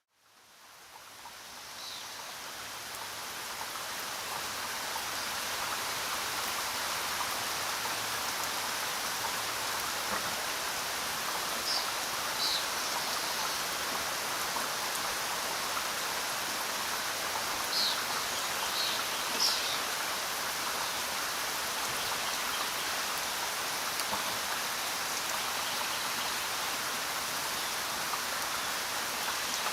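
Steady rain falling, fading in from silence over the first few seconds and then holding even, with a few faint short high chirps partway through.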